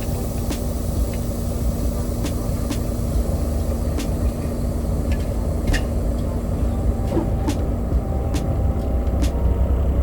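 Truck engine running, heard from inside the cab as a steady low rumble, with a steady hum that stops about three quarters of the way through and scattered sharp clicks and rattles.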